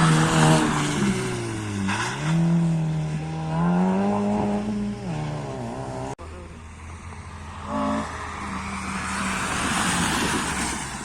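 Rally car engine revving up and dropping back several times as it shifts through gears, loud and close. About six seconds in, the sound cuts off abruptly. A car's engine and tyre noise then build again, with the engine revving near the end.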